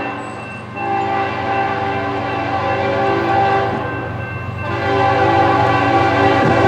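Locomotive air horn sounding a long blast from about a second in, a short break around four seconds, then another long blast, over the low rumble of the passing train.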